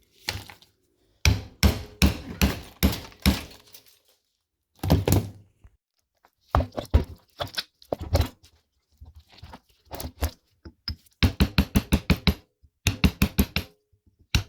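Hammer blows and knocks on metal come in irregular clusters, then in quick runs of several strikes a second near the end, the sound of a microwave oven being broken apart for scrap.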